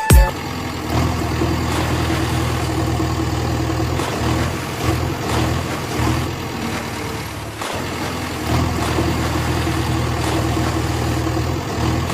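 A heavy vehicle engine idling steadily, a low hum with a few short breaks and a brief cut-out about two-thirds of the way through.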